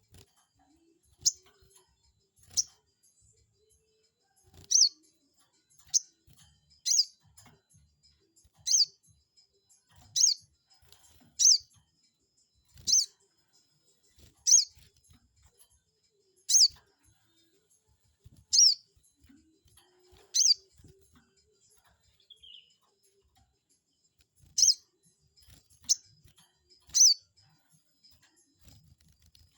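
A sogon bird calling: short, sharp, high chirps, each a quick downward-sweeping note, repeated about every one to two seconds.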